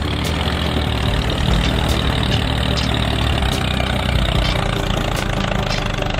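A tractor engine running steadily at idle, a continuous low, even hum without revving.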